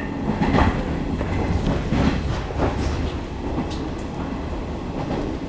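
A local train running, heard inside the passenger car: a steady low rumble with a scattering of sharp clicks from the wheels passing over rail joints.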